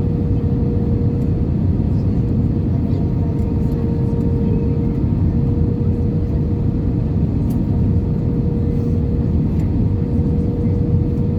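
Cabin noise inside an Airbus A320-214 with its CFM56 engines running: a steady low rush of engine and airflow noise with a constant hum.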